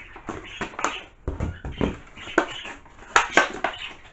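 Handling noises of toiletry packaging and plastic bottles being taken out and turned over: an irregular run of short clicks, knocks and crinkles.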